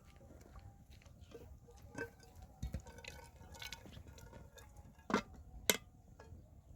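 Dishes and cooking utensils clinking and knocking now and then, with two sharper knocks a little after five seconds in.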